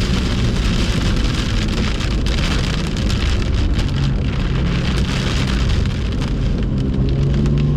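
Heavy rain and wet-road spray hissing over the BMW M2's engine running at speed, the engine note rising near the end as it accelerates.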